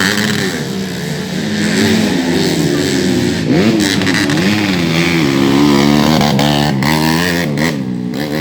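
Several 130cc underbone (bebek) race motorcycles revving hard on a dirt track, their engine pitches overlapping and rising and falling again and again as the riders throttle on and off and shift gears.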